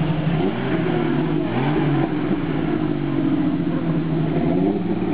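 Engines of vintage cars running as they drive slowly past, the revs rising and falling several times.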